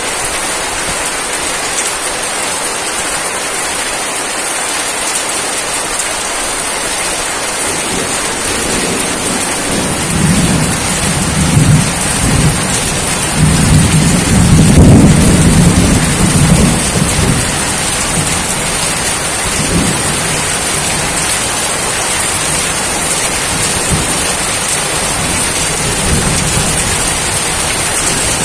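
Steady, heavy rain with a roll of thunder. The thunder rumbles low from about eight seconds in, peaks around fifteen seconds, and fades out by about eighteen seconds.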